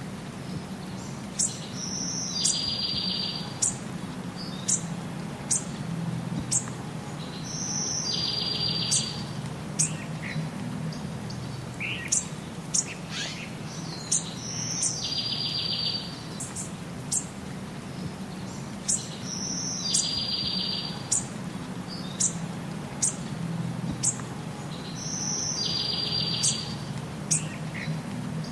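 Birds chirping and calling: short high chirps and a longer buzzy call, the same sequence repeating about every six seconds, over a steady low background hum.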